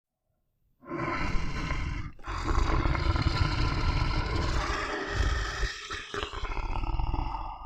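Lion roaring: after a moment of silence, loud, rough roaring starts about a second in and carries on for several seconds, with short breaks near two and six seconds in.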